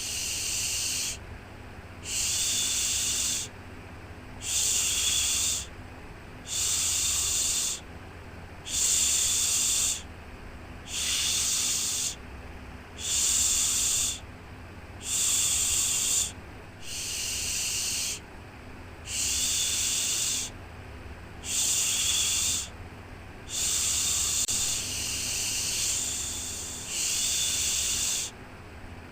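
Rhythmic shushing for soothing a baby to sleep: a long 'shhh' hiss repeated about every two seconds, each lasting about a second and a half with a short break between, over a steady low rumble.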